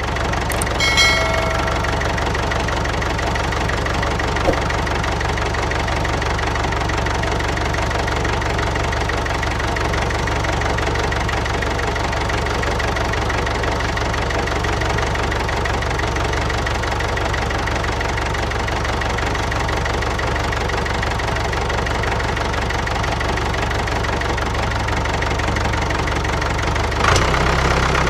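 Engine idling steadily, with a short ringing chime about a second in and the low hum getting a little louder near the end.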